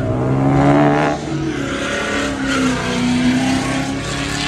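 A car engine at high revs accelerating hard, loud, its note dropping about a second in and then holding steady.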